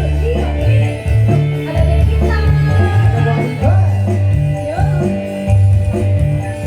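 Live Javanese dangdut band music: a heavy bass line moving in held notes under melody instruments, with some gliding melodic phrases above.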